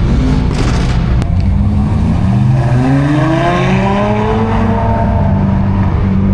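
A car engine accelerating, its pitch rising over about two seconds and then holding steady, over a loud steady rumble.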